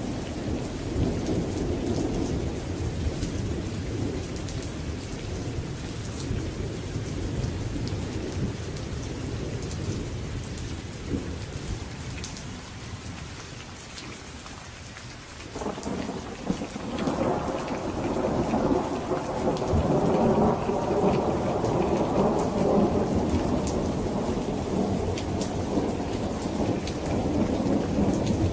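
Thunderstorm: steady rain with thunder rumbling. The rumble dies down through the first half, then a new roll of thunder breaks in suddenly about halfway and swells, loudest a few seconds later.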